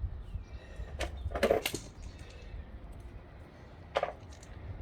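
Hand tools clicking and clinking against metal at the brake disc: a single click about a second in, a short clatter of clicks just after, and one more click near the end.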